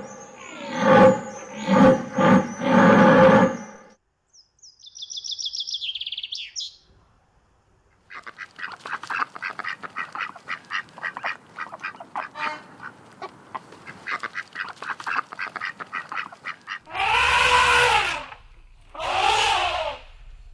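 Birds calling in a series of different bouts: a few loud calls at first, then high chirping, then a long stretch of rapid chattering, and two more loud calls near the end.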